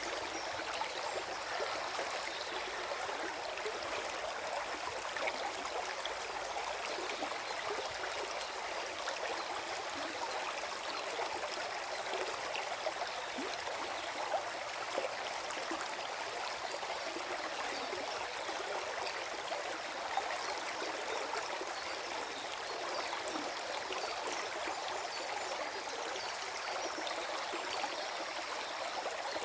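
Small forest stream flowing over stones, gurgling and splashing steadily.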